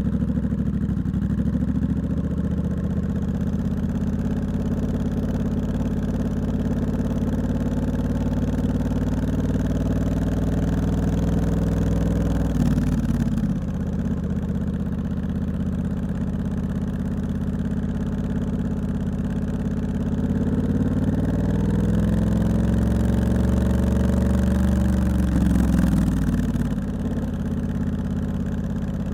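Triumph Scrambler 1200X's 1200 cc parallel-twin engine running through a loud aftermarket Hitchcox exhaust while riding at moderate revs. Its pitch climbs slowly for about ten seconds, drops sharply near the middle as the throttle is rolled off or a gear is changed, then climbs again and drops once more near the end.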